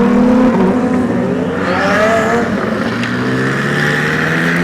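Car engines running at a car meet: one revs up and back down about two seconds in, then a slowly rising engine drone follows.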